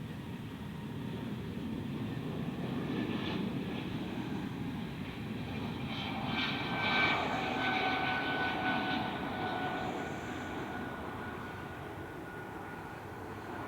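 Airbus A320 airliner's jet engines during takeoff and climb: a broad rumble that builds to its loudest about halfway through and then slowly fades, with a high engine whine standing out around the loudest part.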